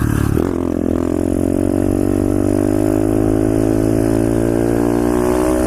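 Pit bike's single-cylinder engine under throttle, revs climbing about half a second in and then held high and steady, the pitch easing slightly.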